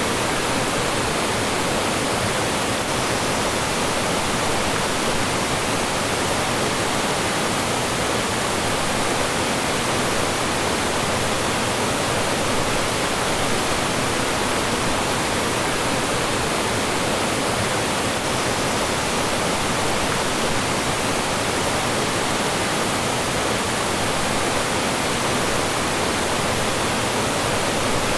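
Mountain stream rushing and splashing over rocks, a loud, steady water noise that does not change.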